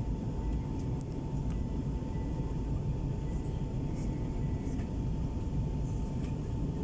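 Steady in-flight cabin rumble of an Airbus A321 on descent, from its engines and airflow, with a faint steady whine above it.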